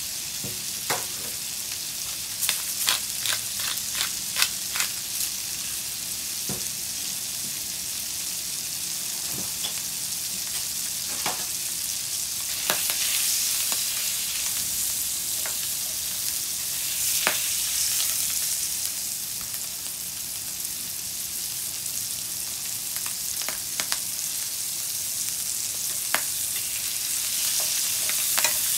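Tuna sizzling as it fries in a nonstick pan, a steady hiss throughout. Utensils click and tap against the pan as the pieces are turned, in a quick run of clicks a few seconds in and a few single taps later.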